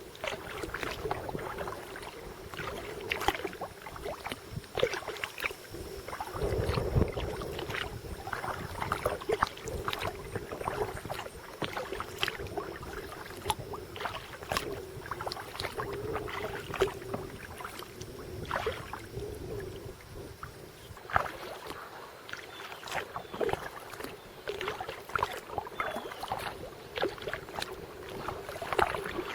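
A kayak being paddled: irregular small splashes and drips of water from the paddle blades.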